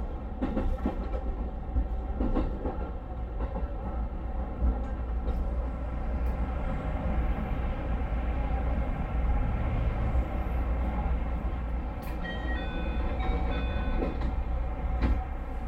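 JR West 221 series electric train running, heard on board: a steady hum and low rumble from the motors, gears and wheels, with occasional clacks as the wheels pass rail joints. About twelve seconds in, a few short high tones sound over it.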